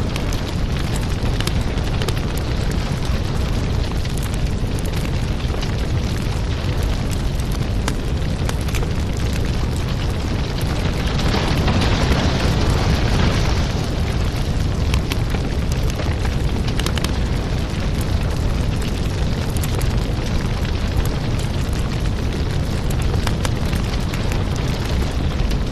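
Fireplace fire burning: a steady low rumble with frequent small crackles and pops. It grows a little louder for a couple of seconds about halfway through.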